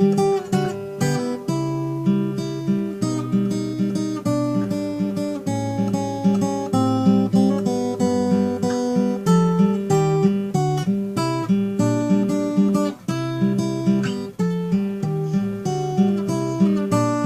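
Acoustic guitar played solo with no singing: plucked bass notes and a melody moving over a repeated middle note, in a steady flow of notes.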